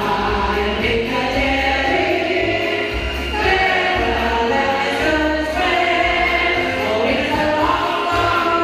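Music: a choir of voices singing in harmony, with a low accompaniment underneath.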